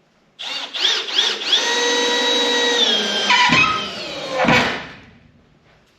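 Milwaukee M12 cordless hammer drill/driver driving a screw into a wooden board. The motor whines in two quick pulses as the trigger is feathered, then runs steady, and its pitch drops as the screw bites and seats before it stops about five seconds in.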